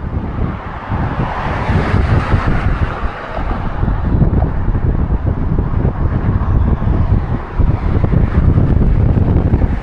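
Strong, gusty wind of about force 7 to 8 buffeting the microphone with a low, uneven rumble that grows louder through the second half.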